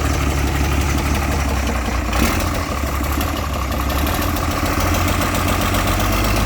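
Doosan DL06 diesel engine idling steadily, with a short knock about two seconds in.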